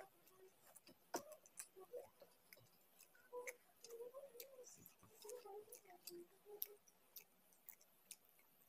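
Faint, scattered wet mouth clicks and smacks of a person chewing a mouthful of rice and curry, a few sharp clicks a second.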